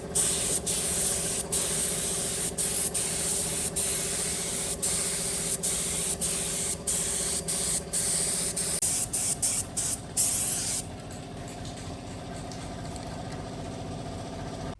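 Compressed air hissing from a hand-held air tool, cut by many short breaks as the trigger is let off and pressed again, over a steady machine hum. The hiss stops about three-quarters of the way through, and the hum runs on alone.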